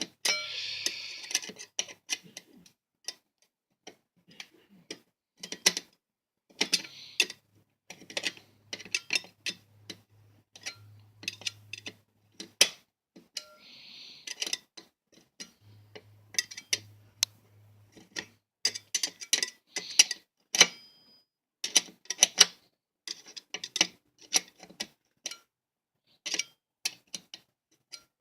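Butter knife tip, used as a screwdriver, clicking and scraping against a screw head in a plastic box fan housing as it works at a stubborn screw. Irregular sharp clicks throughout, with a few short scrapes near the start and about 7 and 14 seconds in.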